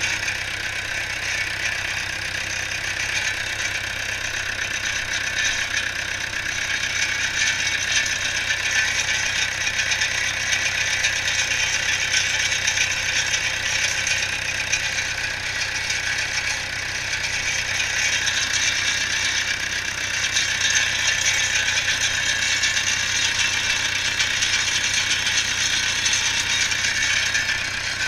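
International Harvester 844 XL tractor's diesel engine idling steadily with a rattling clatter, freshly restarted after standing unused for one and a half to two years. The level swells and eases slightly a couple of times.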